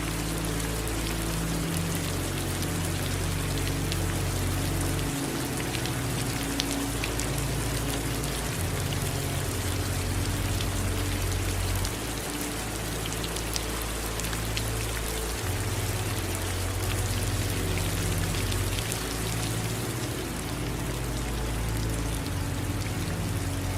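Steady rain with fine, scattered drop ticks, under a low, soft music bed whose deep tones change every three to four seconds.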